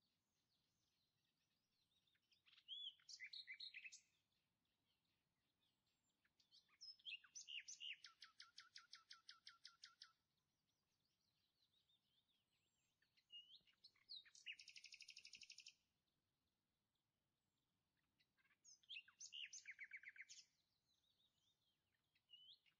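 A songbird singing faintly: short phrases of high chirps every few seconds, several of them ending in a fast trill of rapidly repeated notes.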